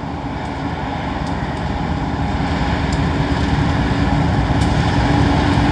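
A lash-up of BNSF diesel-electric locomotives leading a freight train past, engines running under power as a steady low rumble that grows louder as they come near. A steady engine tone joins in about a second and a half in.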